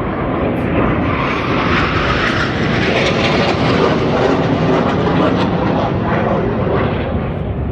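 Swiss Air Force display aircraft flying past overhead: the engine noise swells, peaks about halfway, and fades as it moves away.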